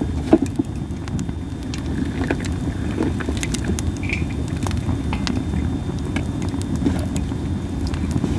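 Masaki (Japanese spindle tree) wood burning in a campfire, crackling with scattered sharp pops and snaps over a steady low rumble.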